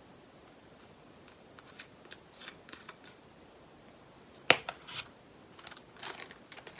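Small plastic clicks and light rustling from handling bags of diamond painting resin drills, with one sharp click about four and a half seconds in.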